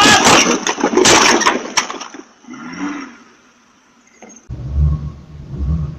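Vehicle crash: loud crunching and breaking for about two seconds, then dying away. A low engine rumble cuts in abruptly later on.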